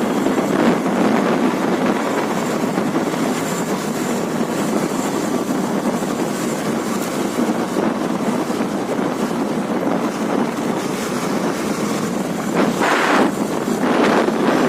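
Wind rushing over the microphone of a moving motorcycle, a steady loud rush that swells in a few stronger gusts near the end.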